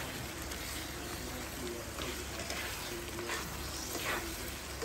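Chilli paste and chopped tomatoes sizzling in a wok as a spatula stirs through them. The paste is being fried until the oil separates.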